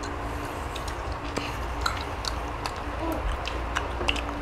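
People chewing boiled chicken, with scattered small, wet mouth clicks and smacks.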